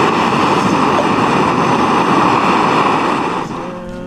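Strong wind blowing in a steady rushing gust that dies away about three and a half seconds in.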